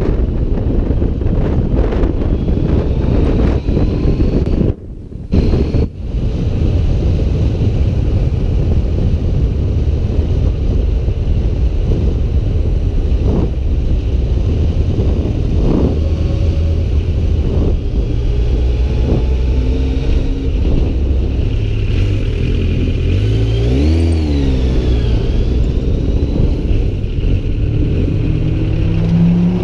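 Motorcycle riding at road speed: heavy wind noise on the microphone over the engine. The engine note comes through more clearly later on, dipping and then rising again about two-thirds of the way through as the bike slows and accelerates.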